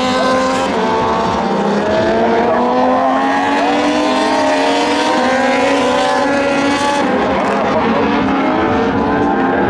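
Several Moto2 racing motorcycles with Triumph 765 cc three-cylinder engines going past at high revs. Their overlapping engine notes climb in pitch and drop back at each gear change.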